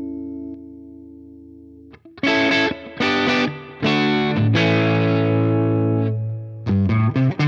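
Les Paul-style electric guitar played through an overdriven Fender Blues Junior IV tube amp, captured through a reactive load and a speaker impulse response. A held chord fades away over the first two seconds. It is followed by a few short chord stabs, one long sustained chord, and quicker picked notes near the end.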